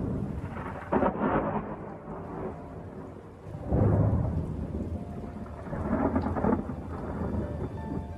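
Thunder rumbling in a lightning storm with rain falling, three deep rolls that swell suddenly: about a second in, the loudest near four seconds, and another around six seconds.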